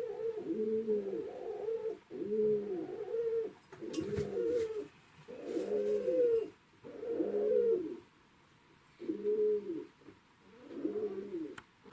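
Young jackdaw calling over and over: about eight short calls, each rising and then falling in pitch, with brief pauses between them.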